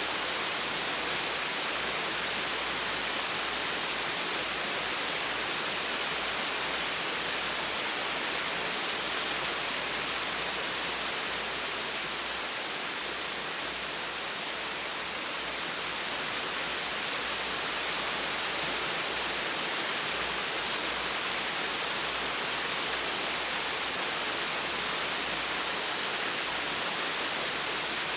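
Gentle waterfall: water falling and splashing in a steady, even rush.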